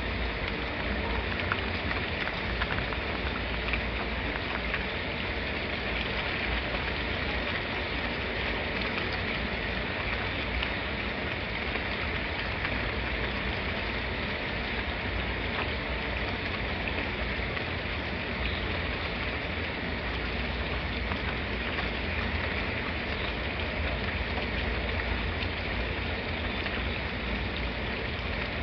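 Steady rain with a low rumble underneath and scattered drops pattering.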